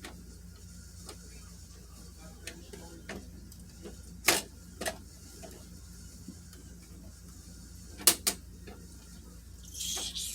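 A handful of sharp clicks over a low steady hum: two about half a second apart near the middle, a quick pair later on, and a short hiss near the end.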